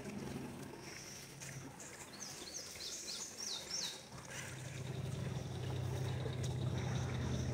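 A bird sings a quick run of high, falling chirps a couple of seconds in, with a few fainter high notes before and after. Under it is a low, steady hum that grows louder about halfway through.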